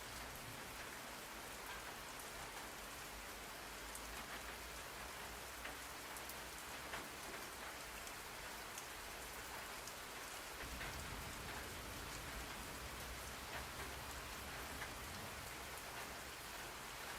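Steady rain falling: an even hiss with scattered drop ticks. A low rumble swells about two-thirds of the way through.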